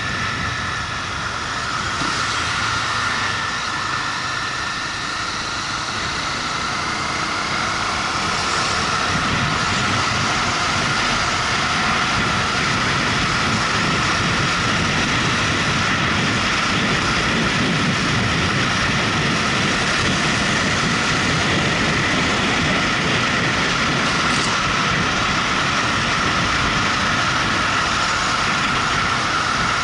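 Motorcycle riding at road speed: steady engine and wind noise on the microphone, a little louder from about eight seconds in.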